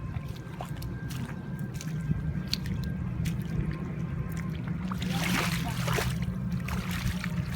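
Water dripping and splashing in small bursts, with a few louder splashes about five to six seconds in, over a steady low hum.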